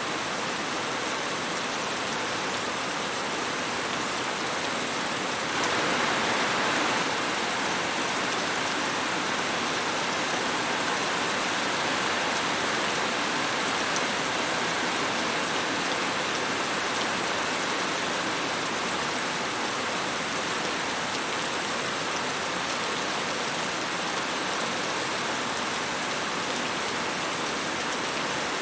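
Steady rain falling, an even hiss of drops, with a brief louder swell about six seconds in.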